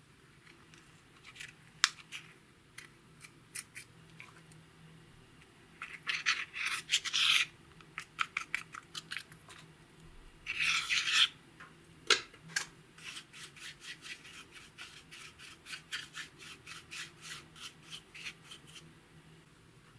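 Dry scraping, rubbing and clicking as makeup is worked for mixing into slime: scattered clicks, two longer scrapes about six and ten seconds in, then a run of quick scratchy ticks.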